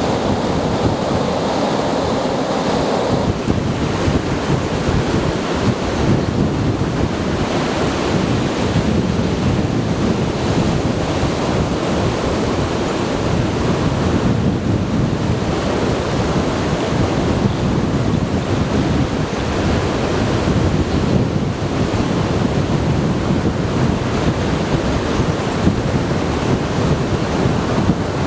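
Strong wind buffeting the microphone over surf breaking on a beach: a loud, steady rush with a gusty low rumble throughout.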